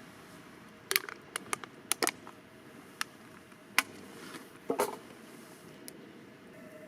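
A string of sharp, irregular clicks and knocks, several in quick succession about a second in and a few more spread out later, over a faint steady background.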